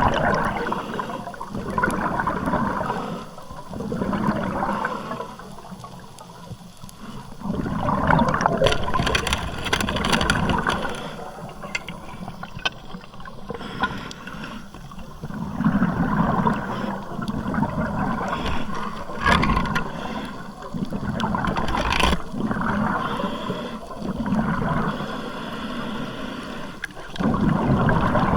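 Water sloshing and gurgling around a camera at or under the sea surface, swelling and fading every second or two, with scattered sharp clicks.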